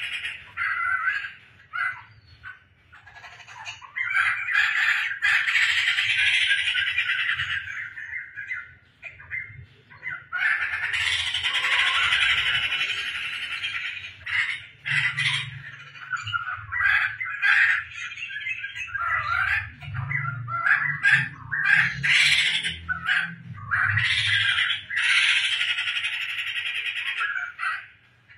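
Poksai (laughingthrush) singing continuously in loud, chattering bouts, with short breaks about 2–4 s and 8–10 s in.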